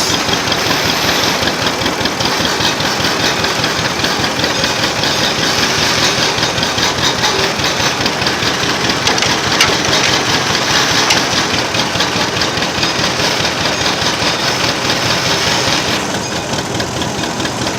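Old vintage engine idling steadily, heard close up, with a fast even beat of firing strokes. About two seconds before the end the sound turns a little duller.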